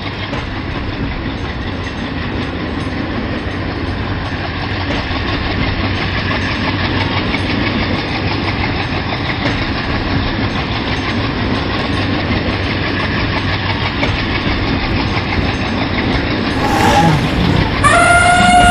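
Train running along the track, a steady rumble and rail clatter that grows slowly louder as it approaches. Near the end a loud, high animal call begins, its pitch arching and then falling.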